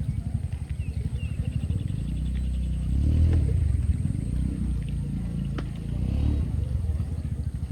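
A small engine running with a rapid chugging beat, getting louder a little over two seconds in and fading again near the end.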